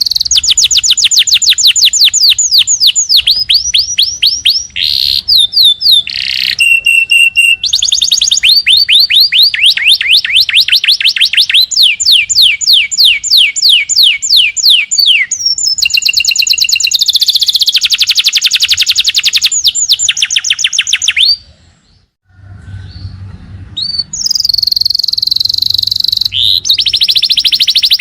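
Small songbirds singing fast rapid-fire trills: long runs of quick, high, downward-sweeping whistled notes, several a second, with changing phrases and a brief pause about three quarters of the way through.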